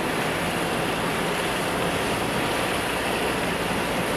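Swollen floodwater rushing in a steady, unbroken roar.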